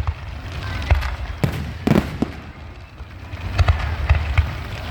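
Aerial fireworks display: a rapid series of sharp bangs from bursting shells, with crackling between them over a steady low rumble.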